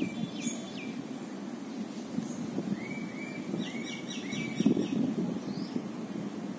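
Outdoor background noise, a steady low rumble that swells briefly about two-thirds through, with small birds chirping: a couple of chirps near the start, then a quick run of repeated short chirps in the middle.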